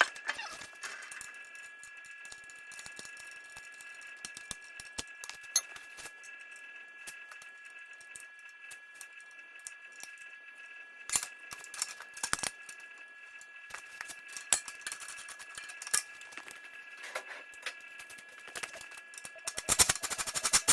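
Scattered sharp clicks and light metallic taps, with a fast run of clicks near the end, over a steady high-pitched hum.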